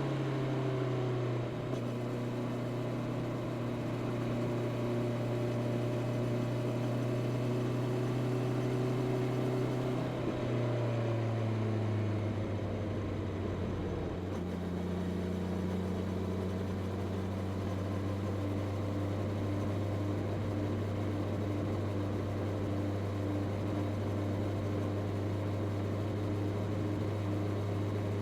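Honda CB650R's inline-four engine running through its stock exhaust at a steady cruise. The revs ease down near the start and again about ten seconds in, then hold steady.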